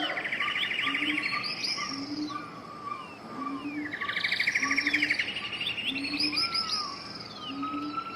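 Several birds singing together: fast rattling trills and rising and falling whistled phrases, over a low short note repeated about once a second.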